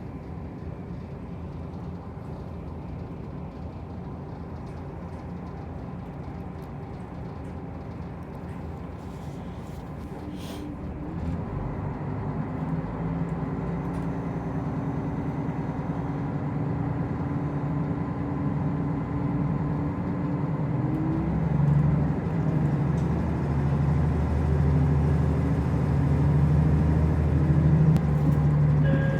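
Diesel railcar running between stations, heard from inside the carriage: a steady rumble of engine and wheels on the rails that grows louder about a third of the way in, with the engine hum rising a little in pitch later on.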